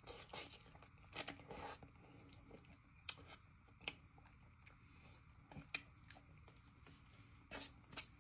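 Faint mouth sounds of someone eating cheesy pasta: soft chewing with scattered wet smacks and clicks, a small cluster about a second in and single louder ones after that.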